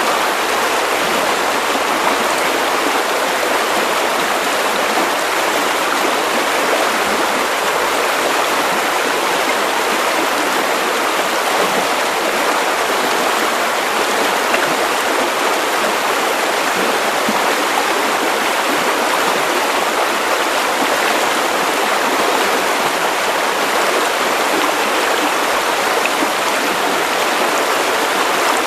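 Steady, unchanging white-noise hiss for sleep, with most of its energy in the middle range and little bass, much like rushing water.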